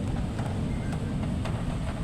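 Rain falling at night with wind rumbling on the microphone, and scattered light taps of drops striking nearby surfaces.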